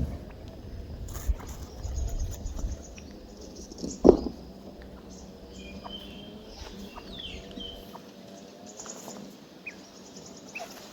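Birds chirping in short high calls and trills, with a single sharp knock about four seconds in.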